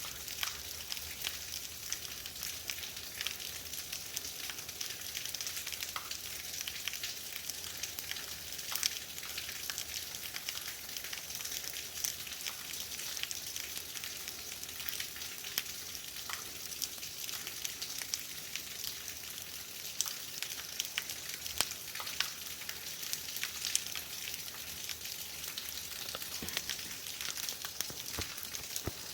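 Heavy rain falling steadily, with a dense hiss and close drops ticking sharply on hard surfaces.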